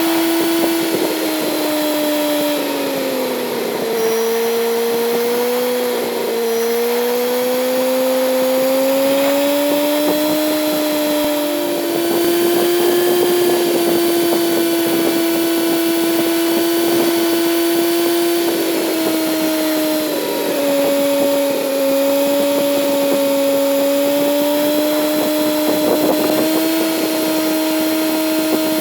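Kawasaki Z900 inline-four engine running under way, with a steady engine note that falls in pitch a few seconds in, steps up about twelve seconds in and drops again about twenty seconds in as the revs and gears change.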